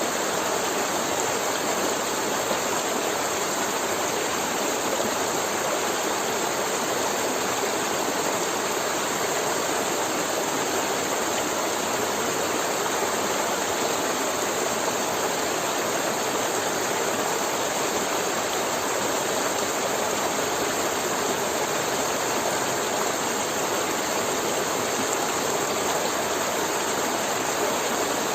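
Forest river flowing steadily over rocks, a continuous even rush of moving water.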